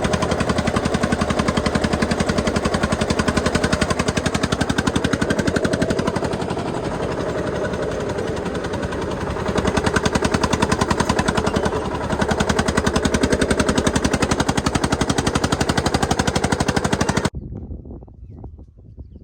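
Tractor diesel engine running close by, a rapid, steady chugging that swells a little partway through, then cuts off abruptly near the end.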